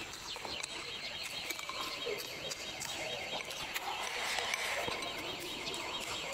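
A bird's high trill, wavering rapidly up and down in pitch, with faint clicks of chopsticks against a bowl.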